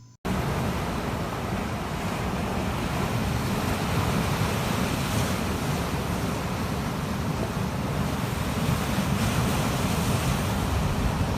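Recorded rushing water, a steady full noise with no pitch, that cuts in suddenly and cuts off suddenly.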